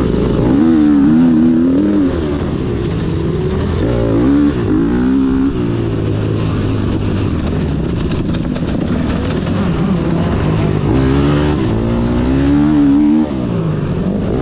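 Motocross bike engine revving hard, its pitch climbing and falling again and again as the throttle is opened and snapped shut, with sudden drops when the throttle is chopped, about 2 s in, around 4.5 s and again near the end.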